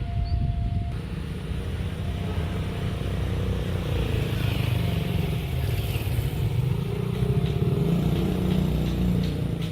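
A passing train: a steady low rumble that builds after about two seconds and stays strong until near the end.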